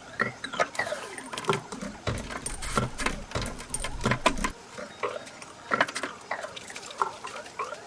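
Fast-forwarded workshop sound of hand work on car parts: rapid clicks and clatter of tools and parts, with squeaky, chirp-like sounds from the speeded-up audio. A heavier rumble of handling comes about two seconds in and lasts a couple of seconds.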